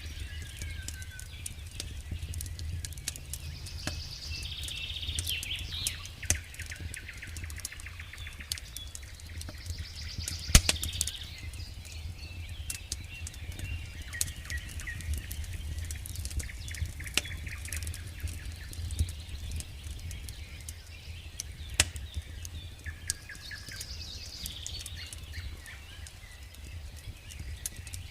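Campfire wood crackling with scattered sharp pops, the loudest about ten and a half seconds in and again near twenty-two seconds, while birds sing. A steady low rumble runs underneath.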